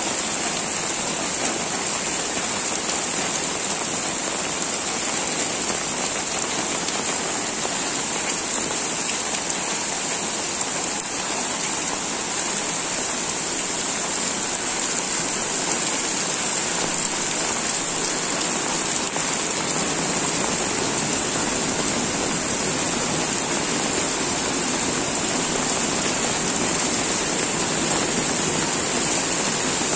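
Heavy rain pouring down steadily, splashing on wet pavement and roofs: an even, unbroken hiss.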